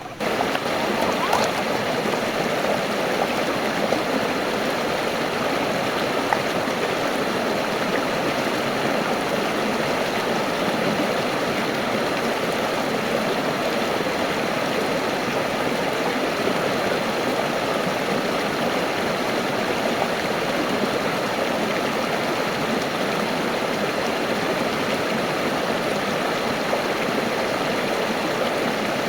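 Stream water rushing and gurgling over rocks in a steady, unbroken wash.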